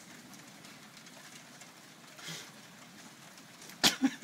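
Steady hiss of heavy rain during a thunderstorm, with one short, sharp crack near the end.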